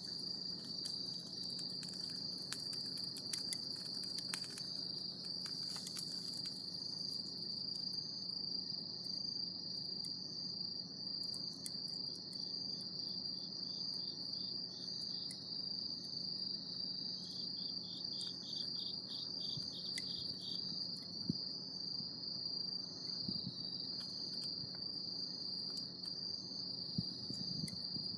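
Crickets chirring in a steady, unbroken high trill, with a second insect's quick pulsed call joining briefly past the middle. Scattered faint clicks and crackles sound underneath.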